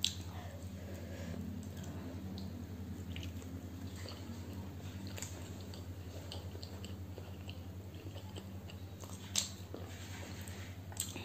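Close-miked chewing of soft boiled egg with curry: faint wet mouth clicks and smacks, with a sharper click about nine seconds in, over a steady low hum.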